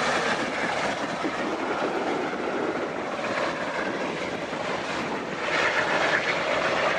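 Fixed-wing aircraft engine noise from an airshow flyby: a steady rushing sound that grows a little louder about five and a half seconds in.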